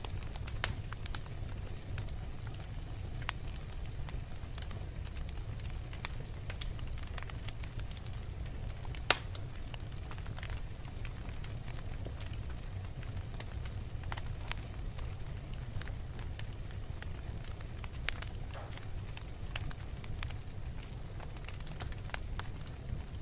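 Wood fire burning in a fireplace: a steady low rumble of the flames with irregular crackles and snaps from the burning logs, one sharp pop louder than the rest about nine seconds in.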